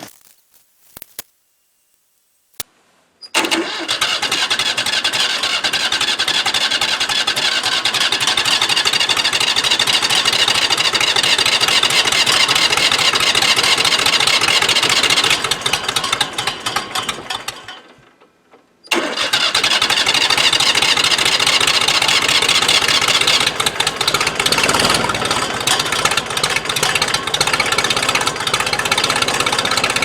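Jinma compact diesel tractor being cold-started: a few seconds in, the engine turns over and runs for about fourteen seconds, cuts out, and a second start begins about a second later and carries on.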